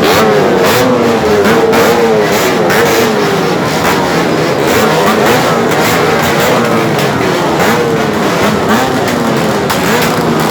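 Many motorcycles with open, loud exhausts revving together, a dense overlapping mix of engines rising and falling in pitch, with crackles and pops throughout.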